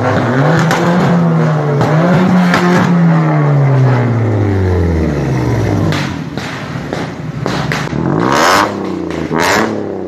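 Car engine revved several times, its pitch rising and falling as it moves past slowly, followed near the end by two short loud bursts about a second apart.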